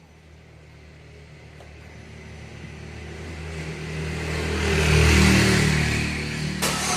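Chevrolet Prisma's engine running with a steady low hum that grows gradually louder; near the end a harsher, hissing noise comes in on top.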